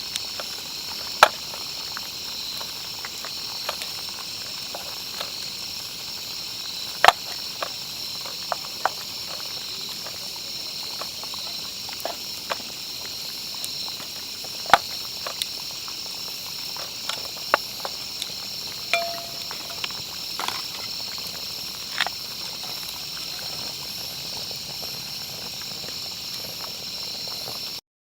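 Steady chirring of crickets or other insects, with irregular sharp pops and crackles from a wood campfire.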